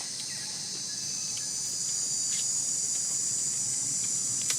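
Steady, high-pitched chorus of insects, slightly swelling, with a sharp click near the end.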